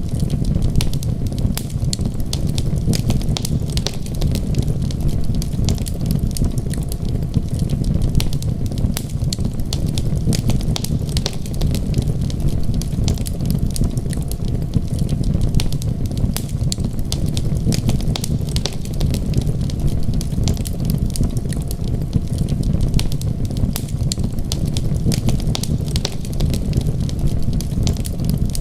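Wood fire crackling with a dense scatter of small sharp pops over a steady low rumble.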